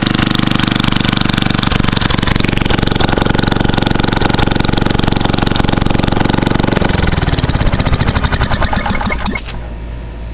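Tecumseh 5 hp single-cylinder engine, ported and governor removed, running fast and loud with no muffler. About seven seconds in it comes off throttle and slows, its firing strokes spreading into separate pops, and the sound cuts off suddenly near the end.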